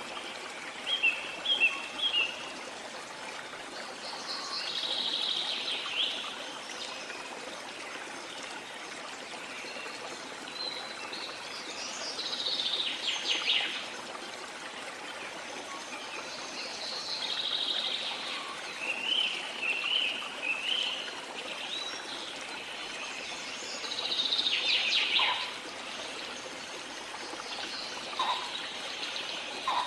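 Steady running water of a jungle waterfall, with birds calling over it every few seconds: groups of short chirps and several longer, descending trilled phrases.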